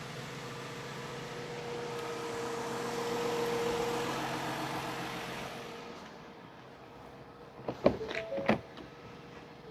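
R-134a refrigerant hissing through the charging hose from the opened tank valve while the engine runs, swelling and then fading out about six seconds in. A few sharp clicks follow near the end.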